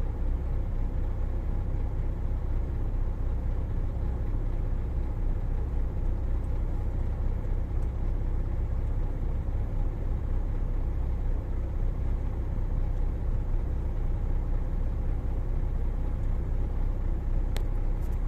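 Steady low drone of a truck's diesel engine and road noise heard inside the cab, with a single sharp click near the end.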